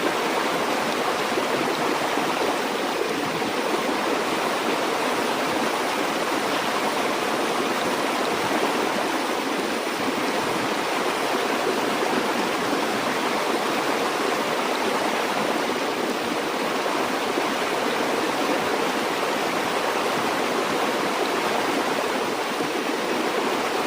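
A river or stream flowing steadily, an even rushing of water over its bed with no change in level.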